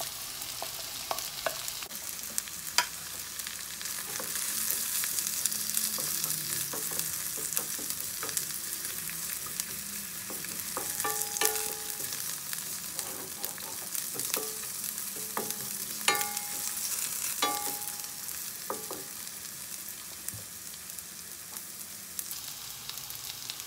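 Sliced onion, garlic and ginger sizzling in hot oil in a stainless steel wok, stirred with a wooden spatula. The spatula knocks and scrapes against the pan now and then, and a few of the knocks leave a short metallic ring.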